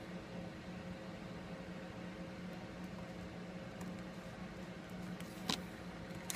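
Steady low electrical hum of a workbench room, with a sharp click about five seconds in and another near the end as small smartphone parts are handled.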